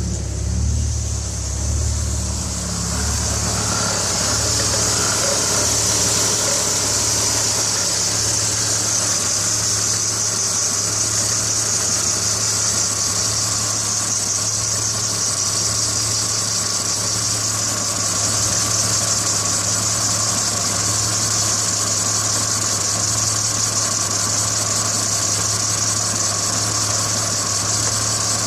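BMW E46 330i's 3.0-litre straight-six idling with a misfire, uneven for the first few seconds and then steadier, under a steady high hiss. The owner traced the misfire to moisture on the ignition coils and worn spark plugs.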